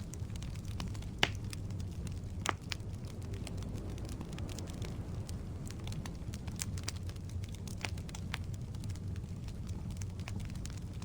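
Wood logs burning in a fireplace: a steady low rumble of the flames with scattered sharp crackles and pops, the loudest pops a little over a second in and about two and a half seconds in.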